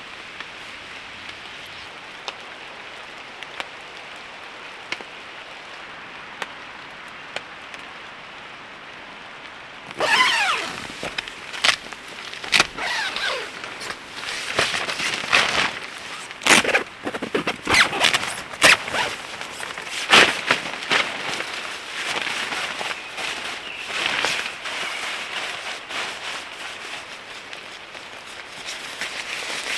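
Light rain hissing steadily with a few faint drop ticks. About ten seconds in it gives way to a tarp and its cords being handled: irregular fabric rustling, quick swishes and sharp clacks.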